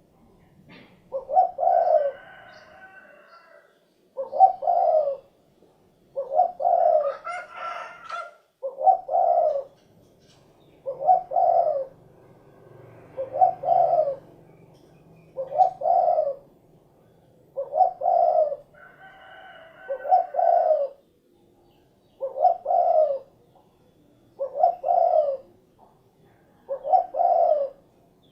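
Spotted dove (derkuku, tekukur) cooing its repeated 'cukurukuk kuk' call, one phrase of several notes about every two seconds. Faint higher chirping from another bird comes in a few times.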